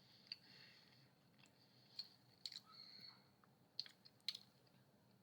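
Faint mouth clicks and smacks of a person chewing a bite of thick, soft pizza crust: a handful of short sounds with near silence between.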